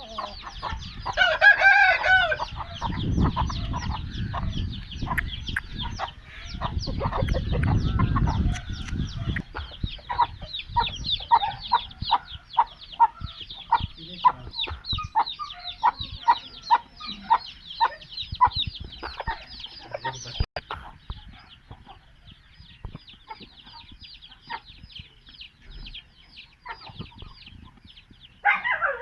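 Chickens clucking in quick, repeated short calls. A louder, drawn-out call comes about a second in. Low rumbling noise rises twice in the first third.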